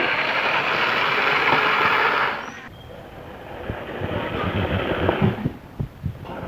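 Small geared DC (BO) motors of a cardboard remote-control truck whirring as it drives. The whirr drops in level after about two and a half seconds, with a few low knocks near the end.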